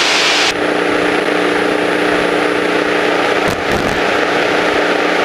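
Steady drone of a small propeller airplane's engine and propeller heard inside the cabin, a constant hum with hiss over it. A louder rush of hiss drops away about half a second in.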